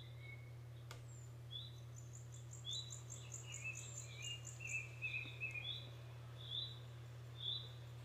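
Faint birdsong: short high chirps repeated every second or so, with a fast trill of notes about two to four seconds in, over a steady low hum.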